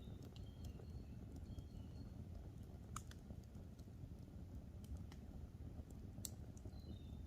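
Campfire burning with a low rumble and scattered sharp crackles and pops, a loud pop about three seconds in and another near the end. Faint short bird chirps come and go near the start and the end.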